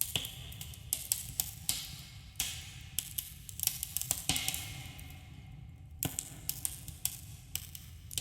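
Campfire crackling, with sharp pops and snaps at irregular intervals, a couple of brief hissing spells, and a steady low rumble underneath, with a subtle echo.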